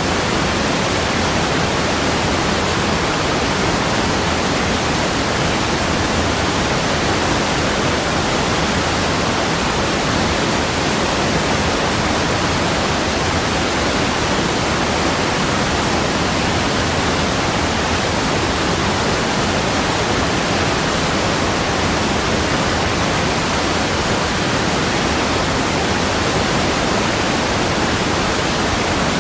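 Steady, even rushing of water, unchanging throughout, like a waterfall or fast stream.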